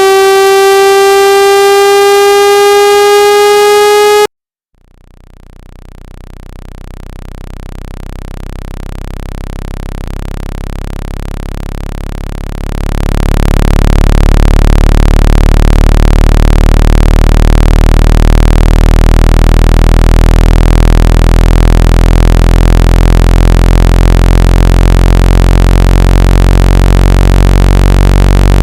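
Synthesized water-ejection tones for shaking water out of a phone speaker: a steady tone slowly rising in pitch cuts off about four seconds in. After a moment of silence a low buzzing tone fades in, turns loud around thirteen seconds in and then holds steady.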